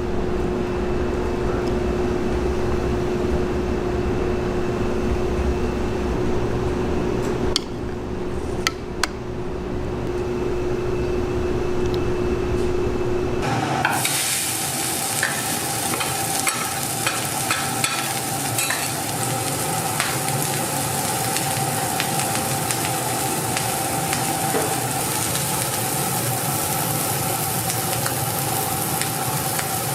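Egg fried rice sizzling in a hot pan as it is stir-fried, with scattered clicks of the cooking utensil. A steady low hum runs under the first half, and about halfway through the sound changes abruptly to a brighter, hissier sizzle.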